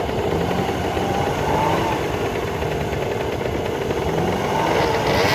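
IZH-2125 Kombi's four-cylinder petrol engine running steadily while the car struggles through deep mud, pushed by hand.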